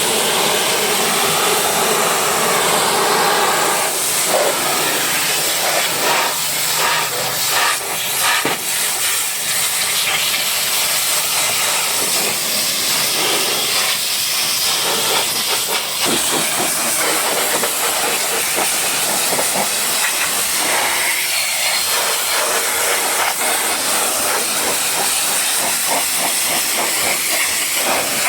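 High-pressure washer spray hissing steadily against a vehicle's body, with small rises and falls as the jet moves.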